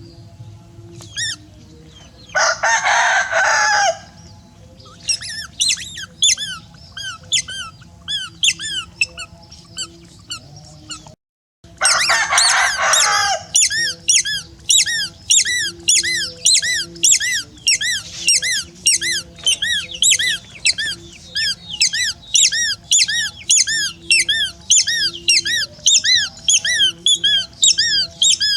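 Many high, short peeping bird calls, several a second and overlapping, growing denser after about eleven seconds. Two longer harsh calls of about a second and a half come in about two seconds in and again about twelve seconds in.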